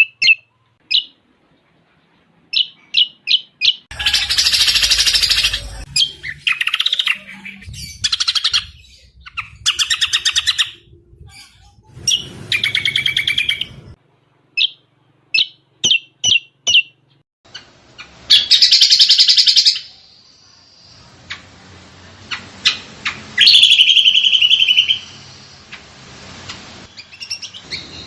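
Cucak combok songbird singing a varied, fast-changing song: short sharp chirps alternating with loud rapid trills. This is a bird-keepers' tutoring (masteran) recording with cililin phrases mixed into the song.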